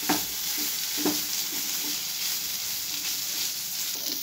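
Boneless masala-coated chicken pieces sizzling in oil in a non-stick kadai, stirred with a wooden spatula, which knocks against the pan at the start and again about a second in. The chicken is being dry-fried in oil alone, without water, until it browns and turns crisp.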